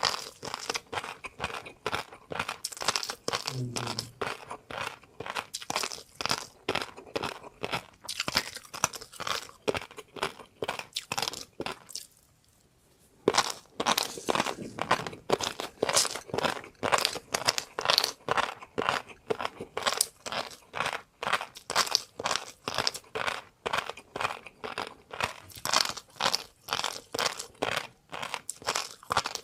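A person chewing crunchy food, with rapid crackly crunches about three or four a second and a brief pause about halfway through.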